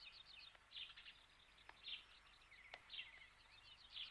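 Faint birdsong: short high chirps and quick trills repeating about once a second.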